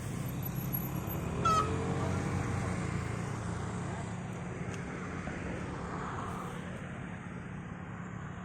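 A motor vehicle engine running steadily. About a second and a half in there is a brief high squeal, and an engine tone rises and falls over the next second or so.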